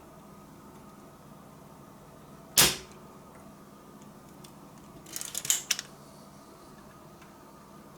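A single sharp knock, then a few seconds later a short clatter of small clicks, over a steady low hum.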